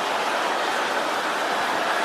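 A congregation shouting prayers all at once, many voices blending into a steady, even crowd noise with no single voice standing out.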